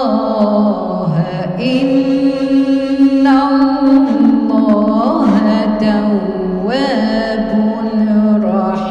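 A woman's voice reciting the Quran in melodic tajweed chant, drawing out long held notes with ornamented rises and falls in pitch on the words "inna Allaha tawwab".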